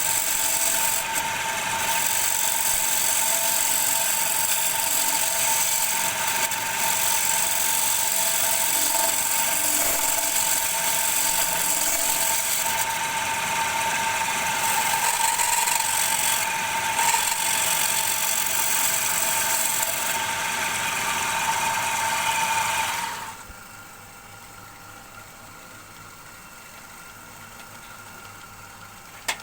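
Wood lathe running with a steady whine while a tool cuts into the turning bowl blank, giving a harsh hiss that comes and goes. About 23 seconds in the cutting sound stops suddenly, leaving a much quieter steady machine hum.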